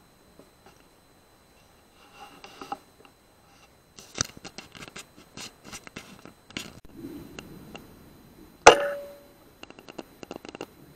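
Clicks, taps and scrapes from an air rifle with a clip-on night-vision scope being handled and swung about. About nine seconds in comes one much louder sharp crack with a short ringing tail, and a few quick clicks follow it.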